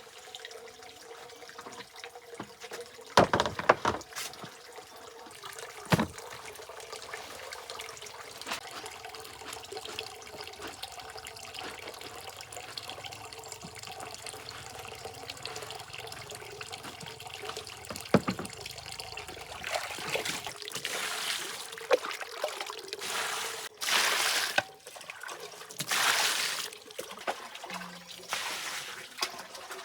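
Water trickling steadily, with a few sharp knocks in the first twenty seconds and repeated louder bursts of splashing in the last ten seconds.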